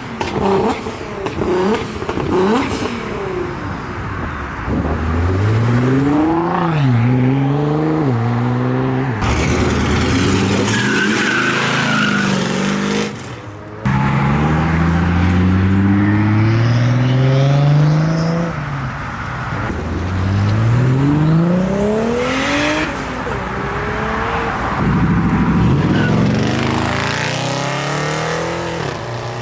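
Loud modified cars, one after another, accelerating hard away from a car meet: each engine's pitch climbs, drops at an upshift and climbs again through the gears.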